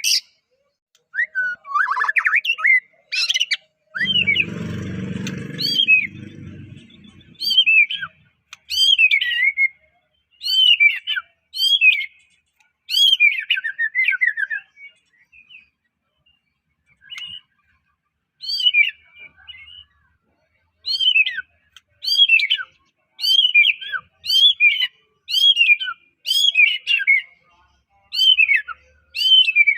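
White-rumped shama (murai batu) singing: loud whistled phrases with notes sweeping down in pitch, repeated about once a second, with a pause of a few seconds past the middle. A brief low noise about four seconds in.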